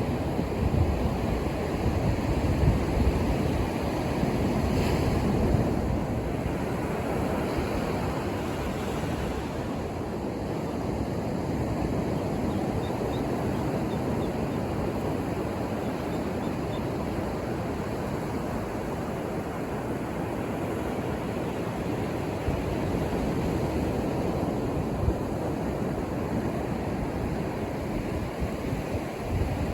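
Ocean surf breaking and washing up the shore: a continuous rushing hiss of waves, a little louder in the first several seconds.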